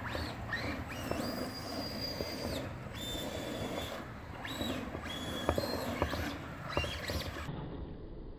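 Brushless electric motor of a Traxxas Rustler VXL RC truck whining up to a high pitch and back down in about six short throttle bursts, with the tires churning in thick mud.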